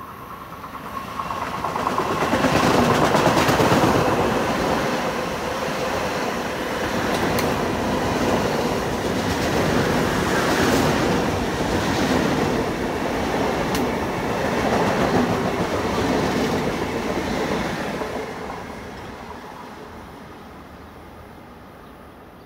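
Long Island Rail Road M7 electric train passing along the platform: the rumble and clatter of its wheels on the rails swells about a second in, stays loud for some fifteen seconds with a few sharp clicks, then fades as it moves away.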